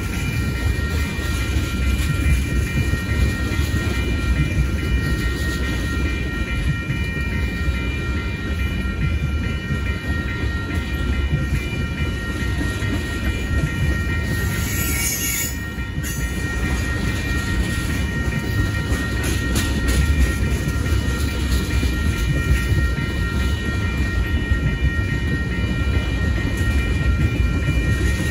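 Freight train cars, mostly tank cars, rolling steadily past at a grade crossing: a continuous low rumble and clatter of wheels on rail. Several steady high ringing tones run over it, and a brief high hiss comes about fifteen seconds in.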